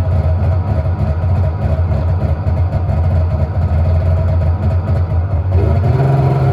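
A motor vehicle's engine running steadily, with its pitch stepping up about five and a half seconds in as it revs or changes gear.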